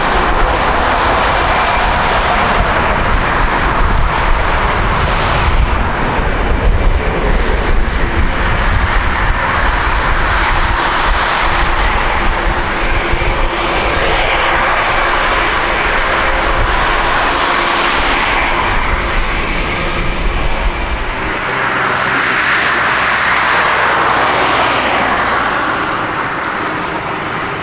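Jet airliner's engines, a loud, dense rushing noise with a faint steady high whine. The deep rumble underneath drops away about three-quarters of the way through.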